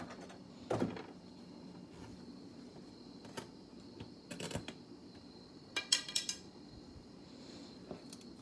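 Metal tools and small parts clinking and clattering while being handled: a few separate clicks, then a quick run of several clinks about six seconds in.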